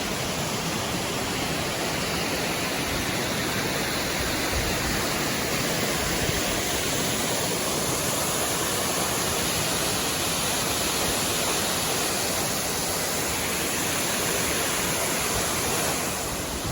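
A mountain waterfall about 50 to 60 feet high, a steady, even rushing of falling water.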